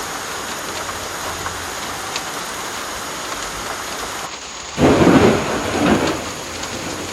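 Heavy tropical rain falling steadily on the roof. About five seconds in, a loud rumble of thunder breaks in, swelling twice over a second and a half before fading back into the rain.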